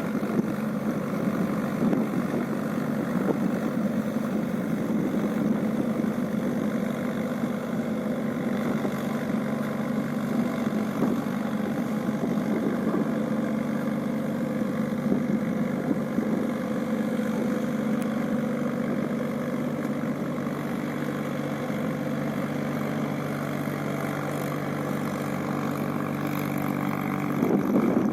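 Mahindra tractor's diesel engine running at a steady speed, getting a little louder near the end.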